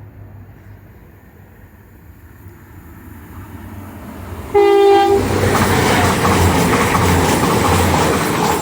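A CrossCountry diesel multiple unit approaches with a growing rumble. About four and a half seconds in, the driver gives a short horn blast. The train then passes close by, loud, with rail and wheel noise.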